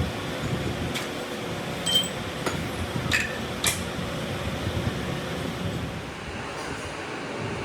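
A few light metallic clinks of steel tools and parts being handled, some ringing briefly, over a steady mechanical hum.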